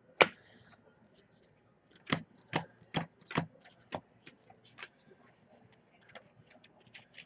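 Trading cards being handled and sorted by hand: a sharp click just after the start, then a quick run of five clicks between about two and four seconds in, with faint ticks and rustling in between.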